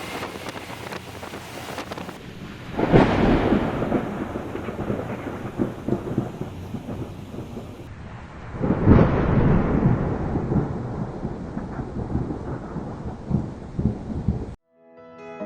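Thunderstorm: steady rain with two loud claps of thunder, about three and nine seconds in, each rumbling away over several seconds. It cuts off abruptly near the end.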